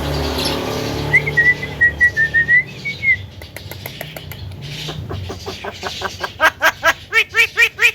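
Male Javan myna giving a long wavering whistle, then, from about halfway, a fast run of repeated arching calls at about four a second. A low hum lies underneath for the first few seconds.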